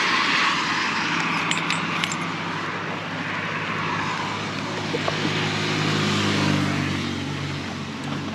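Yamaha XTZ 250 single-cylinder motorcycle engine running under way, its low hum under a steady rush of wind noise on the microphone, with a few faint clicks about two seconds in.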